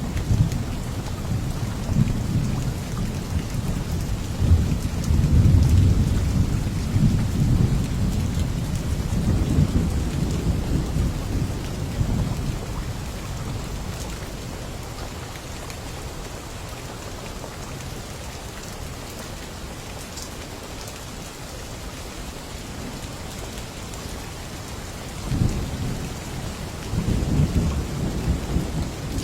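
Steady rain with rolling thunder: a long low rumble over the first dozen seconds, then another, shorter one near the end.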